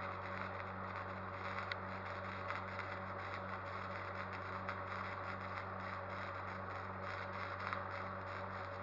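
A machine running steadily with a low hum that pulses about four times a second, over a faint light crackling.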